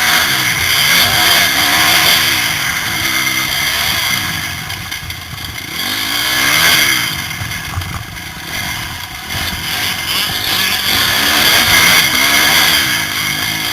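Motocross bike engine revving hard and dropping back again and again as the throttle opens and shuts through the gears, with wind rushing over the helmet-mounted microphone. It eases off briefly about two thirds of the way through before pulling hard again.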